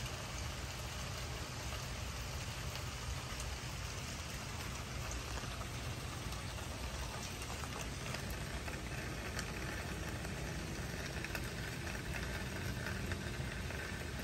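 Steady rain falling on wet pavement and a puddle, an even hiss with scattered ticks of single drops over a low steady rumble.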